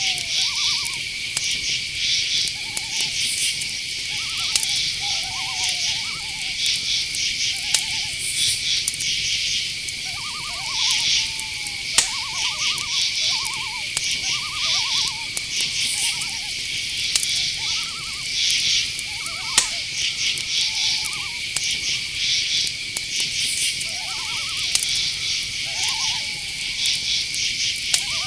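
Night-forest ambience: crickets trill steadily on one high tone while other insects chirp in pulsing bursts. Short, repeated calls from owls come in every second or two. A few sharp ticks sound, the loudest about twelve seconds in.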